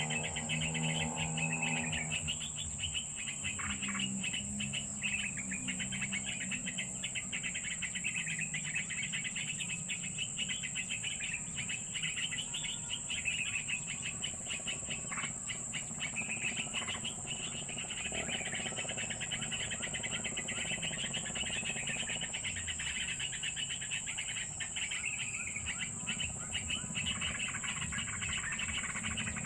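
Birds chirping quickly and continuously over a steady, high insect drone. A low hum or voice sounds in the first two seconds.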